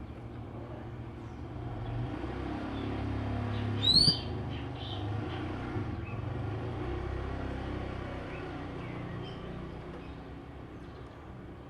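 An oriental magpie-robin gives one sharp, rising chirp about four seconds in, with a few faint chirps after it. Under the chirps a low rumble swells and then fades.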